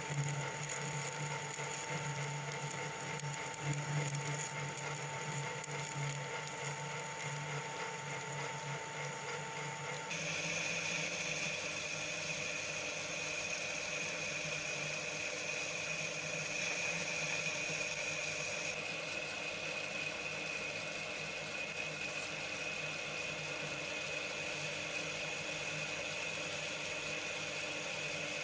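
Homemade lathe running steadily as a hole saw cuts the centre hole in a faceplate blank, a continuous motor-and-cutting whine whose tone changes abruptly about ten seconds in.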